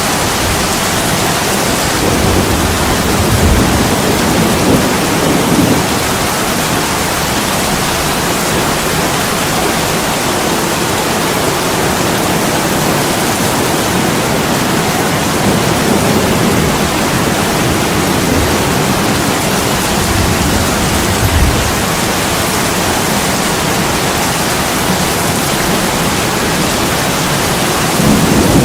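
Heavy rain pouring steadily on window glass, an even hiss, with low rumbles swelling up a few times.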